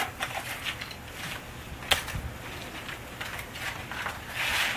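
Scattered light clicks and crunches of hard sleet ice pellets, with one sharper click about two seconds in and a short crunching scrape near the end.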